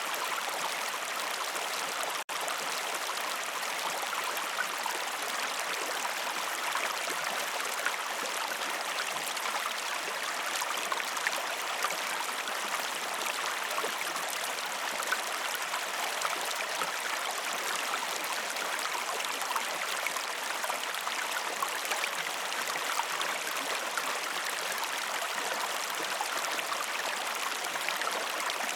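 Flowing river water: a steady, even rush with small splashing ticks through it, broken by a momentary gap about two seconds in.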